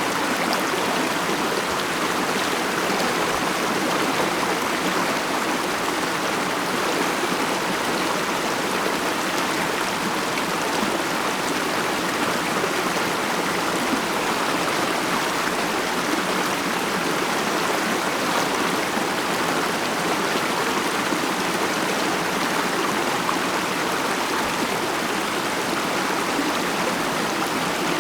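Mountain stream flowing over rocks, a steady burbling water rush with no breaks.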